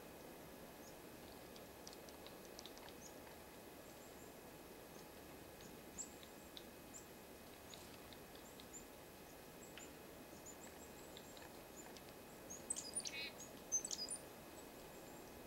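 Small birds chirping faintly outdoors, with scattered short, high calls over a steady background hiss and a louder flurry of calls a little before the end.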